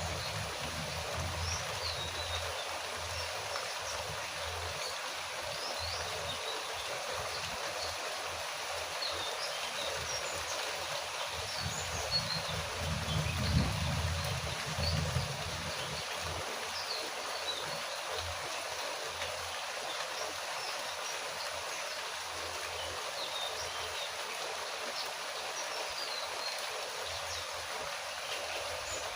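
Steady rain falling, an even hiss, with scattered short high chirps throughout. About halfway through, a low rumble swells for a few seconds with a few sharper knocks.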